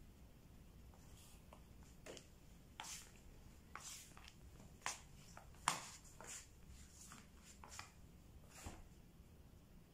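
Near silence in a quiet room, broken by faint scattered clicks and rustles, the sharpest about halfway through.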